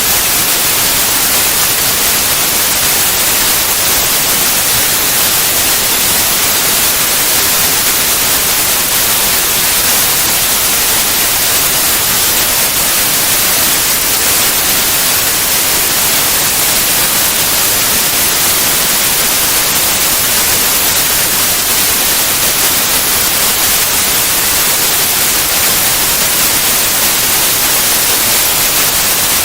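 Steady white noise: an even, constant hiss, brightest in the high end, with no changes in level.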